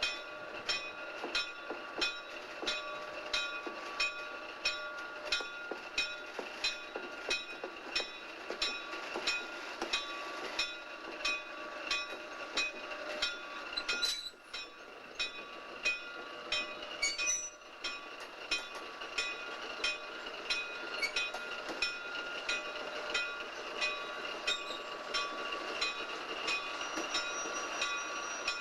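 Train of railroad cars rolling on jointed track, the wheels clicking over the rail joints in a steady rhythm of about one and a half to two beats a second. A steady high-pitched ringing or whine runs underneath.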